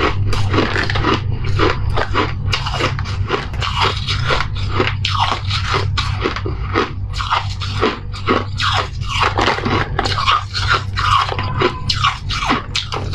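Close-miked crunching and chewing of refrozen shave ice, a rapid run of crisp bites several times a second, over a steady low hum.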